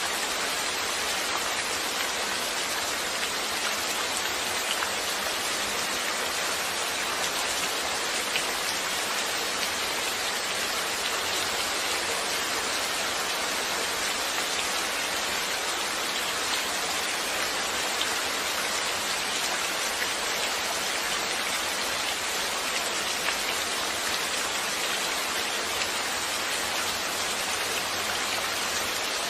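Steady rain falling: an even hiss of rain with scattered small drop ticks, unchanging throughout.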